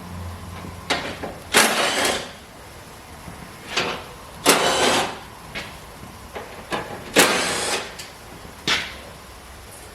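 Three short bursts of a rattling power tool, each about half a second long, with sharp clicks between them.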